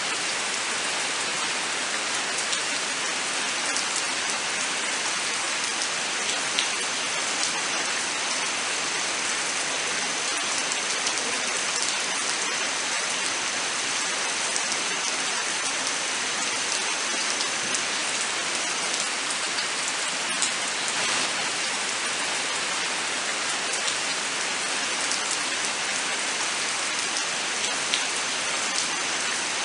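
Steady rain falling, an even hiss with individual drops ticking on surfaces.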